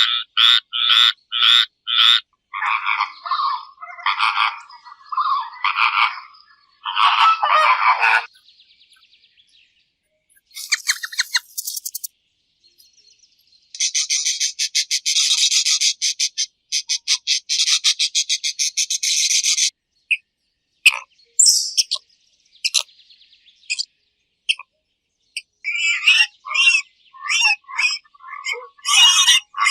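A run of separate animal-call clips. A frog croaks in an even rhythm for the first couple of seconds, then other calls and chirps follow, including a long, fast, pulsed trill from about 14 to 20 seconds in.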